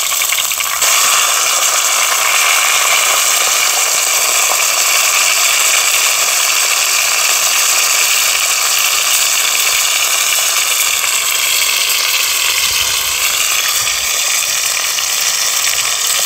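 Hot oil sizzling steadily as batter-coated, semi-dried sea bass fries in a pan, the sizzle getting louder a little under a second in.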